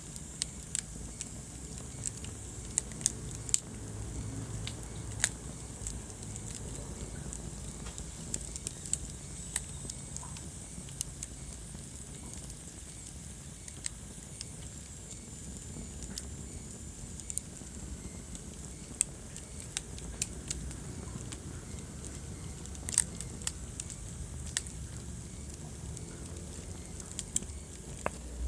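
Wood fire burning in a fireplace: steady low rumble and hiss with frequent sharp, irregular crackles and pops.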